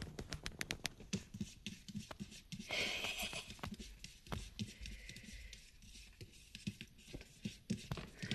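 Faint, quick clicks and scratches of a kitten's claws catching on fabric bedding as it climbs, with a short rustle of cloth about three seconds in.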